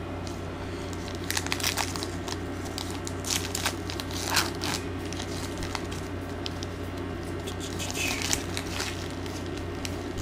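Wrapper of a baseball card pack crinkling and tearing in three short clusters of crackles as the pack is handled and opened, over a steady low hum.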